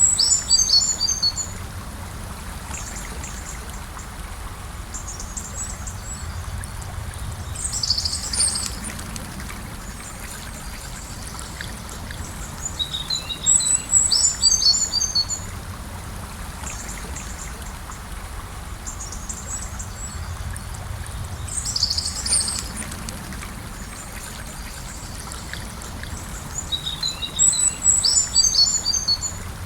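Gentle river flowing steadily, with a songbird singing short, high phrases about every seven seconds.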